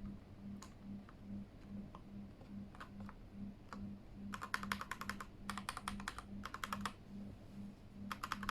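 Keychron K8 mechanical keyboard with newly fitted keycaps being typed on: a few scattered key presses, then from about four seconds in, quick runs of fast typing.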